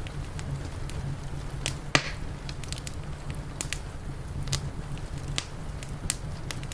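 Wood fire crackling, with scattered sharp pops and one loud pop about two seconds in, over a steady low rumble.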